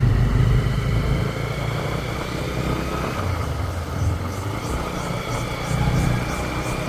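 Motorcycle running steadily on the move, with a heavy, fluctuating low rumble.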